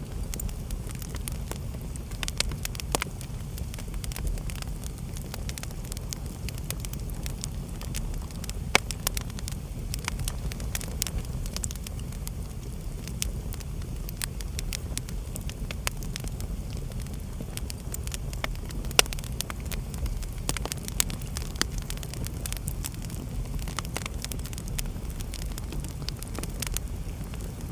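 Wood fire crackling in a fireplace: a steady low rumble with irregular small pops and snaps throughout, and a couple of sharper pops about 9 and 19 seconds in.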